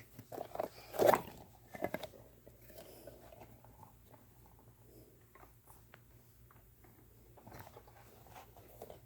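A few sharp knocks and clatters, the loudest about a second in and another just before two seconds, followed by faint scattered ticks and rustles.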